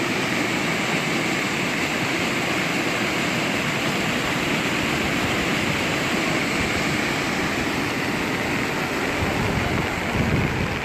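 Rain falling steadily, a loud, even hiss of water with no let-up.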